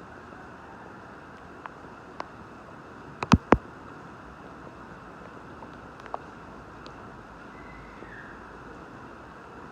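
Steady rain, with scattered single drops ticking. A little over three seconds in come three loud, sharp taps in quick succession.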